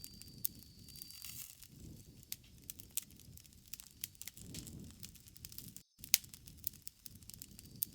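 Campfire crackling: irregular sharp pops and snaps of burning wood over a soft low rumble, with a brief dropout about six seconds in where the looped recording restarts.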